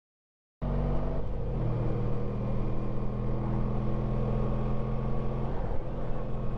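Honda ST1300 Pan European's V4 engine running steadily on the move, with wind and road noise. It cuts in suddenly out of dead silence about half a second in, and dips briefly near the end.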